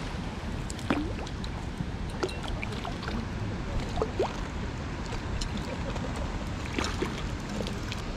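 Rain dripping and plinking in scattered small drops over a steady low rumble.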